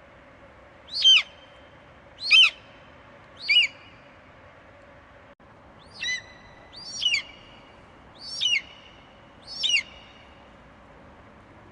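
An eagle calling: seven short, high screeches, each sliding sharply down in pitch, repeated about once a second with a longer pause midway.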